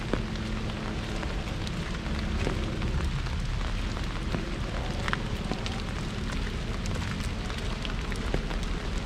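Rain falling on an umbrella: many separate drops tick on the canopy at irregular moments over a steady hiss of rain.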